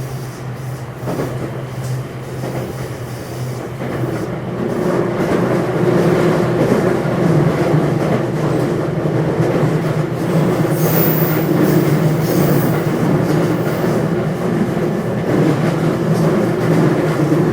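Running noise inside a JR West 227 series electric train's motor car (Hitachi IGBT VVVF inverter) at speed: steady traction motor hum over wheel-on-rail rumble and joint clatter. About four seconds in a low hum drops away, higher motor tones come in, and the whole sound grows louder.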